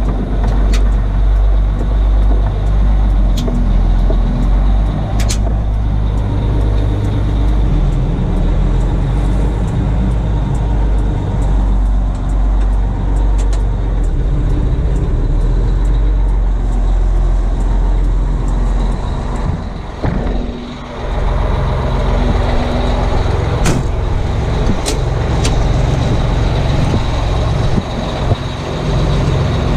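1980 Howe fire truck's two-stroke Detroit Diesel engine running loudly and steadily. Its speed dips briefly and comes back up about two-thirds of the way through, with a few sharp clicks here and there.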